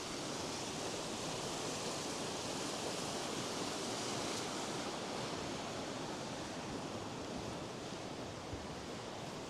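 Steady rushing noise of wind and sea surf on an exposed coast, even throughout, easing slightly near the end.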